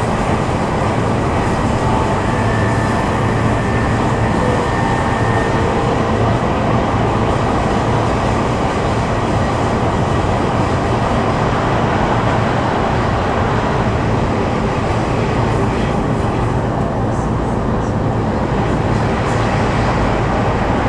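Cabin noise inside a JR East E233 series 2000 subseries electric commuter train running between stations: a steady rumble of wheels on the rails and running gear.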